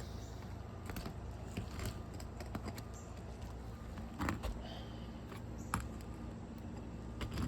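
Scattered clicks, taps and scrapes of hand tools working nails out of asphalt 3-tab shingles, with a few sharper knocks about four and six seconds in, over a steady low background.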